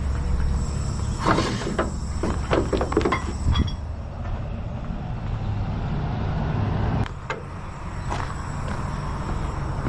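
An engine idles with a steady low hum while a series of metallic clanks and rattles sounds between about one and three and a half seconds in. A sharp click comes about seven seconds in, and the low hum falls away after it; another click follows a second later.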